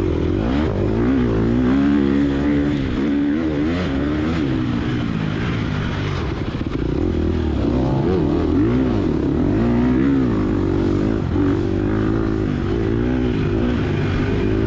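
Gas Gas EX250F dirt bike's four-stroke single-cylinder engine running under load, its pitch rising and falling again and again as the throttle is worked.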